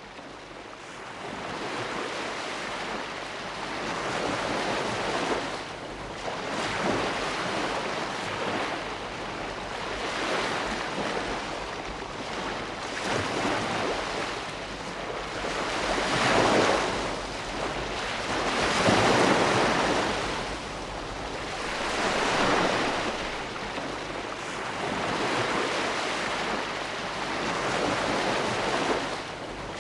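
Ocean waves breaking and washing in, a steady rush of surf that swells and ebbs every few seconds, with the loudest surges about halfway through.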